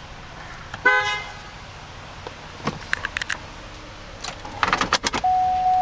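A short two-tone car horn toot about a second in, then scattered clicks and rattles, and near the end a steady electronic tone that begins and holds.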